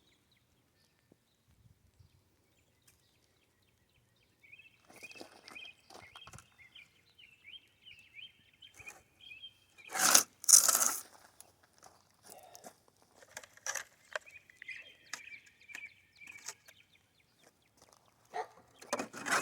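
A songbird chirping and trilling, starting a few seconds in and again later. About halfway through comes one loud, brief crunch, the loudest sound.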